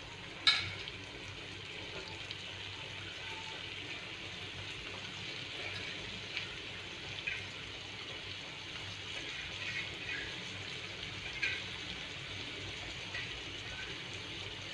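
Sliced bitter gourd going into hot oil in a pan, with a sharp knock about half a second in, then a steady sizzle with occasional small pops.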